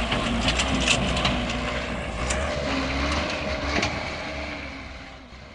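Heavy vehicle engine rumbling, with scattered knocks and crunching, fading out near the end.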